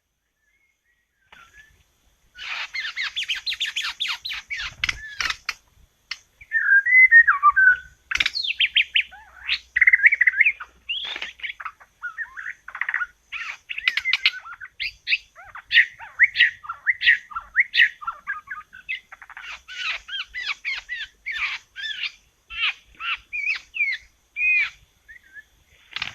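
White-rumped shama (murai batu) song: a long, varied run of rich whistles, trills and chattering phrases that starts about two seconds in and goes on with only short breaks.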